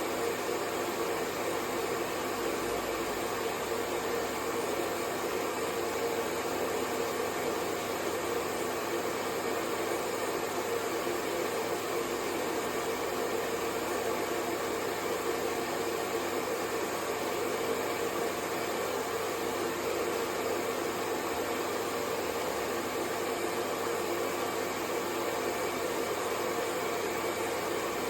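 Hair dryer running steadily: a continuous, unchanging rush of air with a low hum under it.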